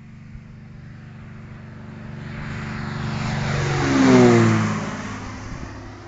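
Light aircraft engine flying low overhead: it grows louder for about four seconds, then its pitch drops sharply as it passes and the sound fades.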